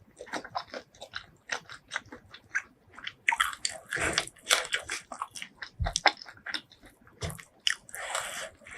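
A person chewing and biting food close to the microphone: a run of small, quick mouth clicks, with denser, louder stretches about three and a half seconds in and again near the end.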